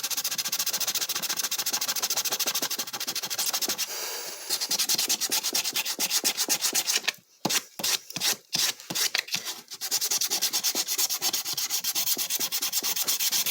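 Sandpaper rubbed back and forth by hand over plywood in quick, rapid scraping strokes, with a short stretch of slower, separate strokes about seven seconds in.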